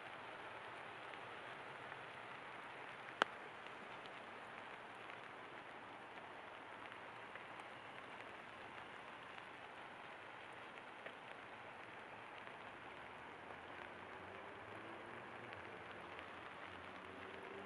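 Steady rain pattering, with one sharp click about three seconds in. A faint low hum comes up near the end.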